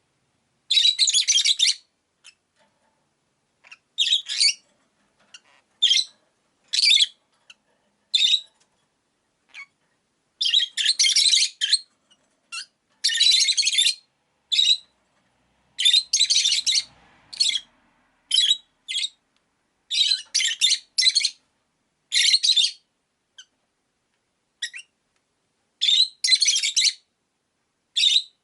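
Pet rosy-faced lovebirds (peach-faced lovebirds) chirping: bursts of harsh, shrill calls, some brief and some running about a second, coming irregularly with short quiet gaps between them.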